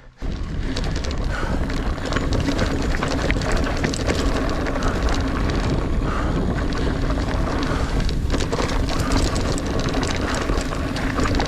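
Niner Air 9 RDO 29er mountain bike riding over a dirt singletrack trail: steady rumble of the tyres with many small clicks and rattles from the bike, and wind on the microphone.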